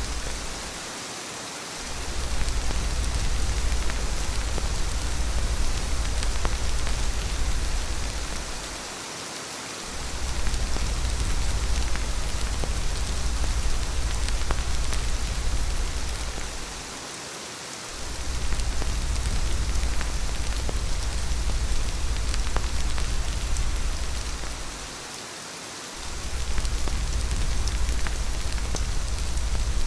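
Steady rain falling, a dense even patter. Under it runs a deep low rumble that drops away briefly about every eight seconds.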